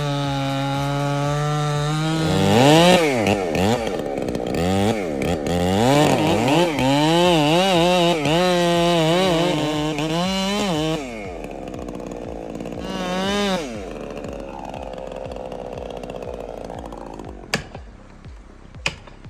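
Chainsaw running at a steady pitch, then revved up and down again and again for about nine seconds, with its pitch swinging high and low. It drops back to a quieter run with one more rev, and two sharp clicks come near the end.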